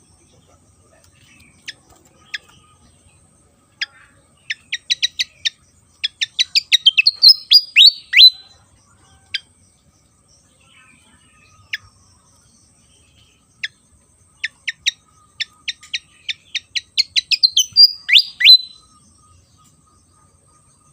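Sikatan kipas (Javan fan-tailed flycatcher) in full song: two phrases about ten seconds apart, each opening with a few spaced sharp chips that speed up into a rapid run of high notes and end in a couple of slurred, falling whistles.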